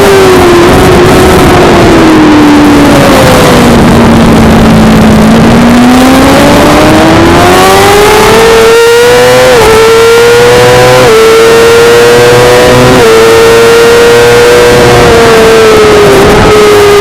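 Suzuki GSX-R600 inline-four engine running hard on track. Revs fall as the bike slows for a corner about four seconds in, then climb again, with three quick upshifts, each a small dip in pitch. The revs ease off near the end.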